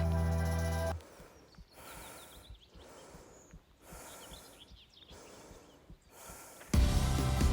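A person breathing hard, a series of heavy breaths roughly a second apart, as after running, with faint birdsong behind. Background music stops about a second in and comes back shortly before the end.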